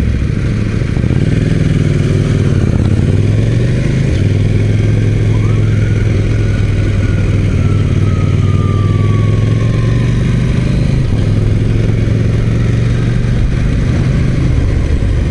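KTM 790 Duke's parallel-twin engine idling at a stop, then pulling away and running steadily at road speed.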